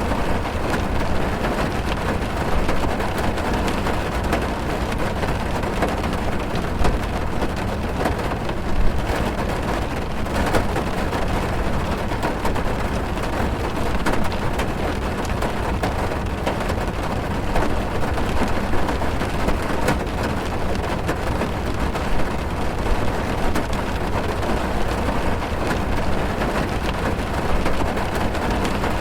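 Heavy rain drumming on a car's roof and windows, heard from inside the car: a steady dense patter of drops with a deep rumble beneath.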